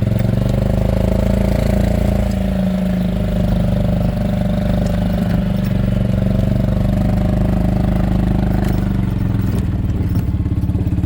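Small farm vehicle's engine running steadily under way, its note easing off near the end.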